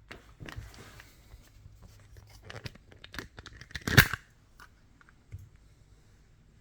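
Packaging being handled: rustling, crinkling and tearing with scattered clicks, and one sharp loud click about four seconds in.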